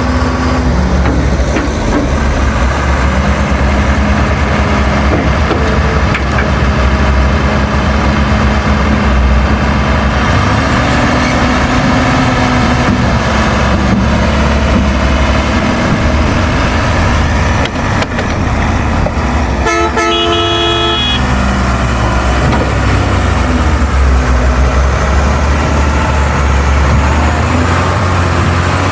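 Heavy diesel engine running steadily, with a vehicle horn sounding once for about a second about two-thirds of the way through.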